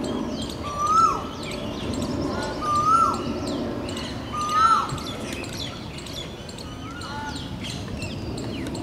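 Birds calling in the surrounding trees. One bird repeats a short whistled call that holds, rises a little and then drops sharply, four times about two seconds apart, over many fainter, higher chirps.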